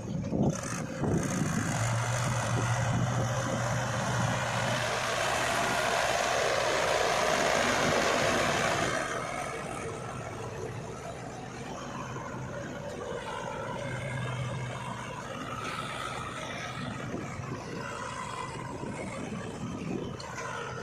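Heavy diesel engines of a backhoe loader and tractor running steadily. A louder, noisier stretch runs from about two to nine seconds in, then the engines settle back to a quieter, even running.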